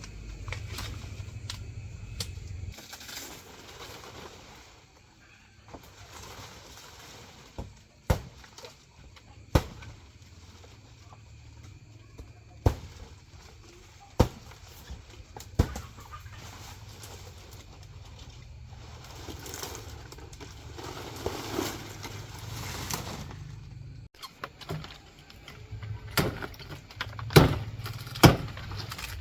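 Sharp knocks at irregular intervals, several seconds apart and coming closer together and louder near the end, with rustling in between.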